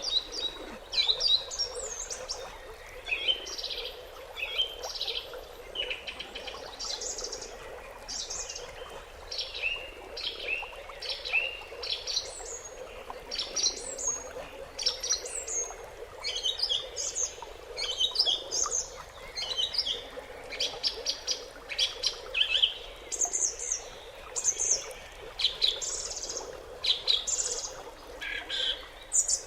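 Several small birds chirping and singing: a busy run of short high chirps and trills, a few each second, over a steady low background hiss.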